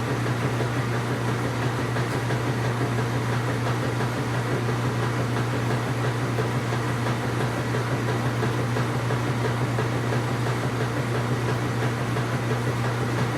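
Washing machine running: a steady low hum with an even mechanical whirr over it, unchanging throughout.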